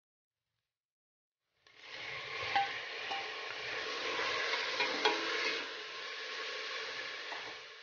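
After a short silence, chopped tomatoes start sizzling suddenly in hot oil with sautéed garlic, onion and ginger in a stainless steel pot, stirred with a metal spoon that clicks against the pot a few times.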